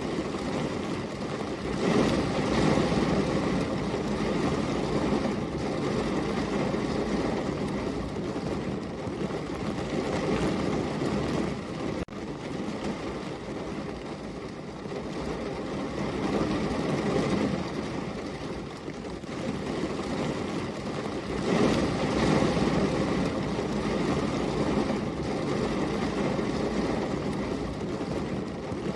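Rain pouring steadily, swelling louder and softer every few seconds, with a brief sudden dropout about twelve seconds in.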